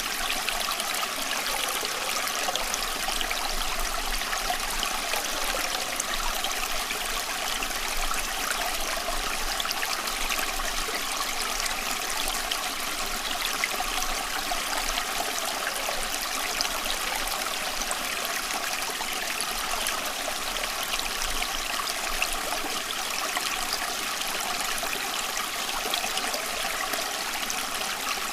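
Running water, flowing and trickling steadily without a break.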